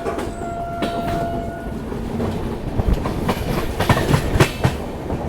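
Hirakhand Express passenger train running: a steady horn tone stops about two seconds in, then the wheels clack and knock over rail joints, loudest in a run of heavier knocks near the middle.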